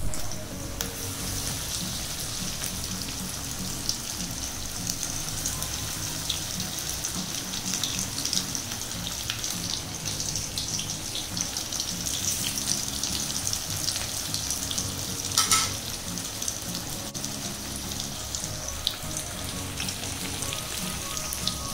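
Crumb-coated chicken pieces frying in hot oil in a wok: a steady sizzling hiss with many small pops, and a brief louder burst about fifteen seconds in.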